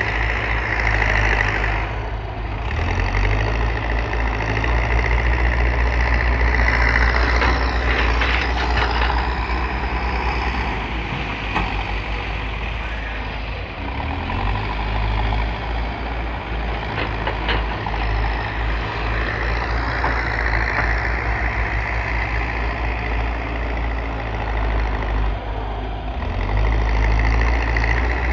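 JCB's diesel engine running under load, revving up and down in several swells as its hydraulic arm works, with a few short knocks about a third of the way in and again past halfway.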